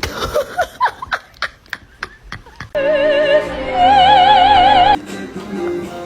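An operatic voice singing two long notes with heavy vibrato, the second one higher, starting about three seconds in and stopping suddenly about two seconds later. Before it come short squeaks and clicks.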